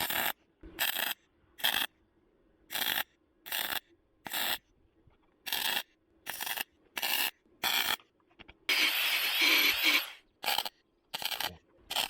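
Welding arc crackling in a string of short tack-weld bursts, each a fraction of a second with brief pauses between, then one longer bead of about a second and a half near the end, as patch panels are welded into a car's rusted body.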